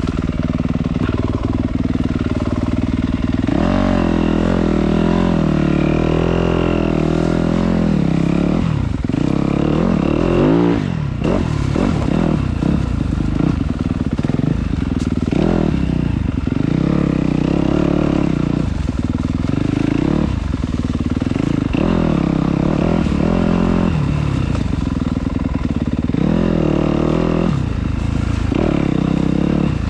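Dirt bike engine running, its revs rising and falling over and over.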